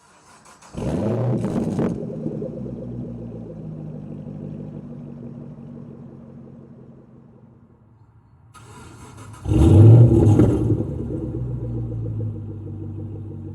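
Chevrolet Camaro SS's LS3 6.2-litre V8 through a custom exhaust being started: a short crank and a loud flare that settles into a low idle which slowly quietens. About eight and a half seconds in it cranks again and fires with a louder flare, then settles back to a steady idle.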